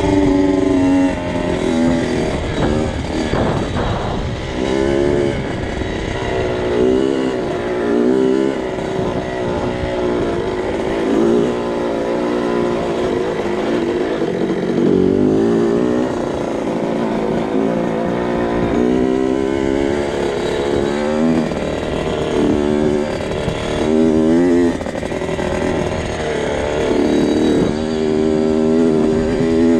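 A 2002 Kawasaki KX 65's 65cc two-stroke single-cylinder engine being ridden, revving up and backing off again and again, its pitch rising and falling every second or two.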